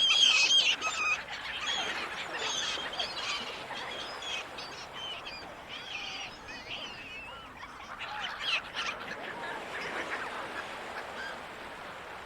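Gulls calling, many short overlapping cries that are loudest at the start, with another burst about eight seconds in, over a steady wash of sea noise.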